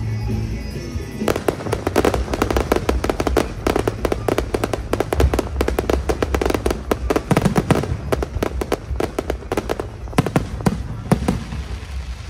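Aerial fireworks going off in a rapid, dense string of bangs and crackles, starting about a second in and thinning out near the end, with music underneath.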